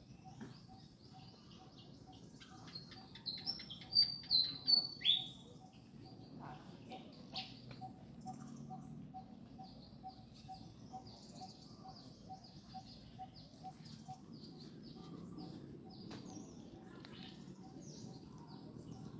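Birds chirping and calling, with a burst of loud, sharp calls about three to five seconds in and scattered softer chirps after. A faint, even ticking runs beneath at about two ticks a second.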